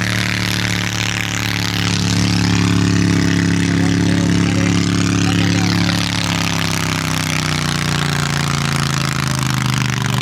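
A tractor-pulling competitor's engine running hard under load during a pull: a loud, steady engine note that sinks in pitch and eases off in the second half.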